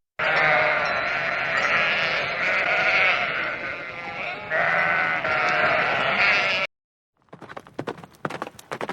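Many animals bleating at once in a dense, continuous chorus that cuts off suddenly about two-thirds of the way through. After a short silence, quick irregular clicks and knocks begin.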